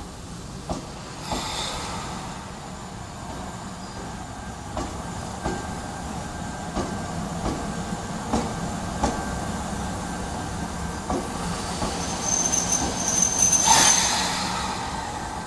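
Ohmi Railway electric train pulling into the station, wheels clicking over rail joints under a steady rumble. A high squeal of brakes and wheels rises near the end, the loudest part, as it slows to a stop.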